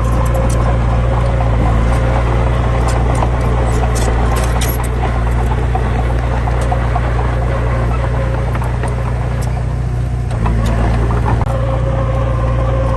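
Heavy diesel engine running steadily with a deep drone, its note shifting about ten seconds in, with scattered clicks and rattles over it.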